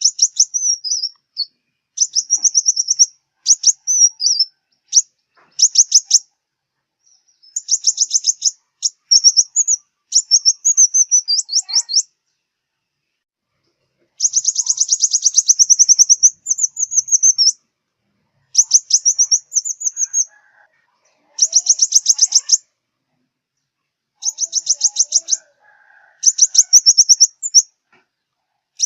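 Sunbird song: high, thin, rapid trills and twittering phrases, repeated in short bouts of one to three seconds with brief pauses between them.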